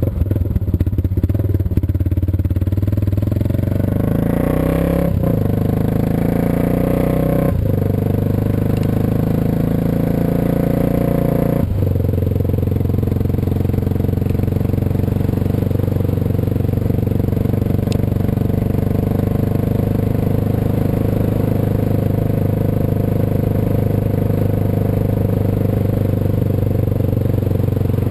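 Suzuki DR650 single-cylinder motorcycle engine heard while riding. The engine pulls up through the gears, with the pitch dropping at three upshifts in the first twelve seconds, then holds a steady cruise with little wind noise on the microphone.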